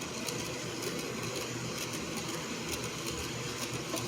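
HO scale model subway train running on a layout track: a steady hum and rumble with light, short clicks repeating a few times a second.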